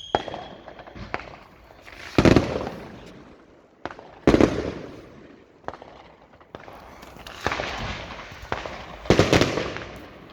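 Fireworks going off: three loud bangs, each fading out in a rumbling, crackling tail, come about two, four and nine seconds in. Smaller sharp cracks fall between them.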